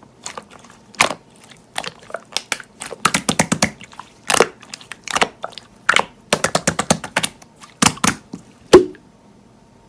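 An irregular series of sharp crunching and crackling sounds, some in quick clusters, that stops shortly before the end.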